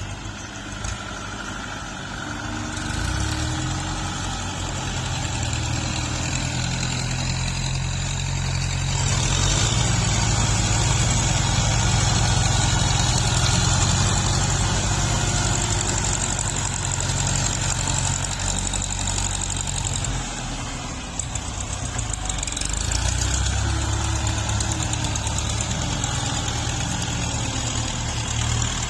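Heavy diesel engine of a tractor grading soil, running continuously. It grows louder about a third of the way in and eases briefly about two-thirds through.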